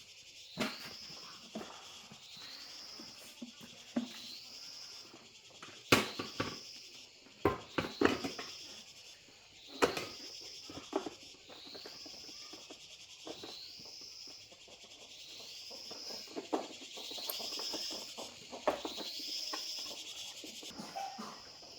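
A small animal's call, a short rising high chirp repeated about every second and a half, with scattered sharp knocks and clatters over it.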